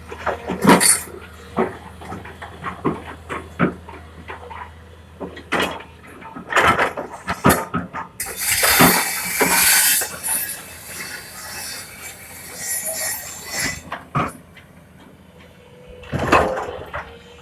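Excavator at work: a string of irregular clanks and knocks, over a low engine hum in the first six seconds. About eight seconds in comes a rushing noise lasting about two seconds.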